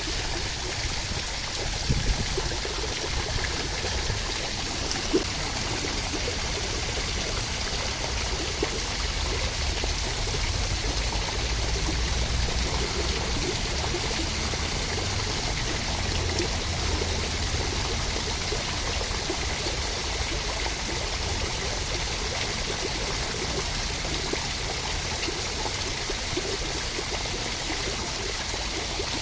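Steady rushing water making a continuous, even hiss, with a few brief louder ticks in the first seconds.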